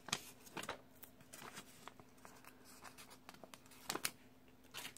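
Quiet handling of paper stickers and a planner: soft rustles, scratches and light taps as header stickers are peeled off their sheet and pressed onto the page, with a few sharper taps at the start and near the end, over a faint steady hum.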